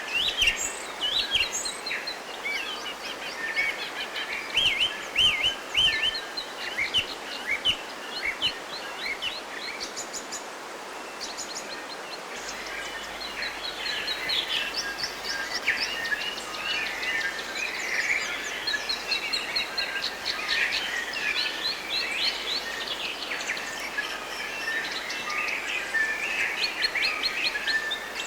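Forest birds singing and calling, several at once, in quick chirps, trills and short whistles that overlap throughout, over a steady background hiss.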